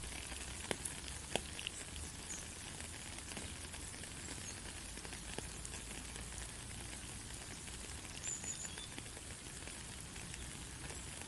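Steady rain falling, an even hiss of many drops, with a few louder individual drips or taps in the first few seconds and again about five seconds in.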